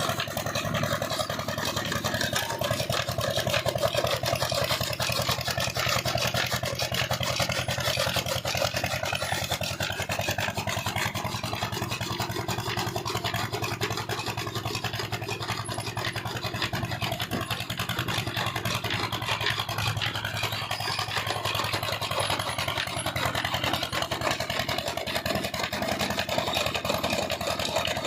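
Old Petter stationary diesel engine running steadily, with a fast, even firing beat.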